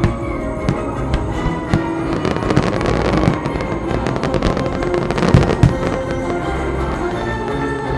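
Fireworks bursting and crackling over orchestral music, with a dense run of rapid crackles and bangs in the middle and a couple of heavy booms about five seconds in.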